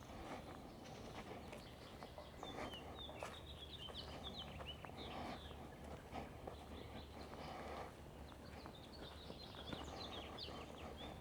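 Small songbirds chirping faintly in quick runs of short sweeping notes, in two bouts, about two seconds in and again past the middle, over a soft steady outdoor rustle.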